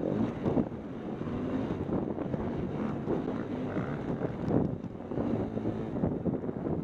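A motocross bike engine runs with an uneven, rising and falling level, mixed with wind buffeting the microphone.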